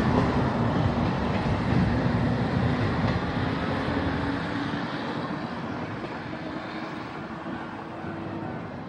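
Diesel railcar on the Watarase Keikoku Railway pulling away, its engine and wheels fading steadily as it recedes.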